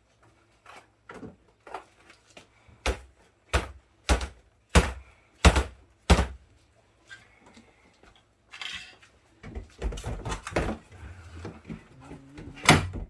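A refrigerator part being knocked against a surface six times in a steady rhythm, about one knock every two-thirds of a second, to shake off meltwater, then handled with rustling and clatter and knocked once more loudly near the end.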